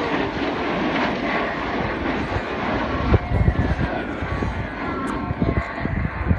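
Jet aircraft roaring past in an airshow display, a steady broad roar, with a few low thumps about halfway through and near the end.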